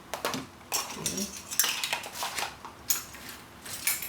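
Small hard objects clicking and clattering as they are picked through and moved about, a quick irregular run of knocks and rattles, with one short spoken word, 'green', about a second in.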